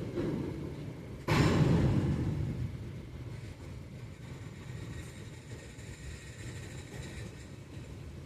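Long CSX freight train rolling through a grade crossing with a steady low rumble. About a second in, a sudden loud rush of noise starts and fades over the next two seconds. Faint thin high tones sound in the middle.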